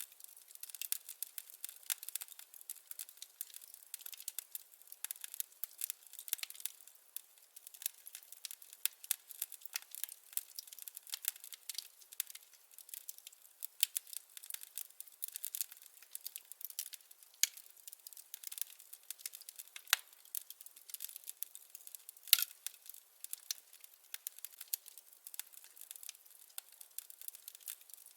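Wood fire crackling: firewood burning with dense, irregular pops and snaps, and one louder pop about three-quarters of the way through.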